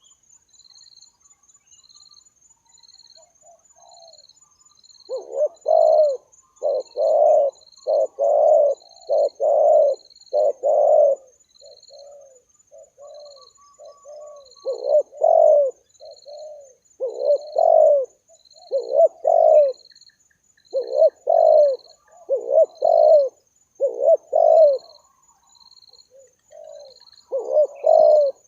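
Spotted doves cooing: repeated phrases of low, rolling coos, starting about five seconds in and coming in groups with short gaps. A faint, steady high-pitched insect chirping runs underneath.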